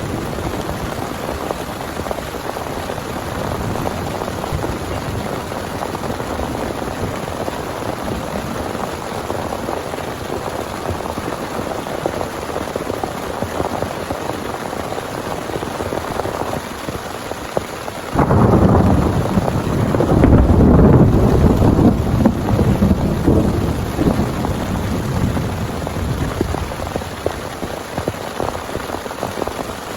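Heavy rain pouring steadily. About two-thirds of the way through, a loud clap of thunder breaks in suddenly and rumbles for several seconds before fading back under the rain.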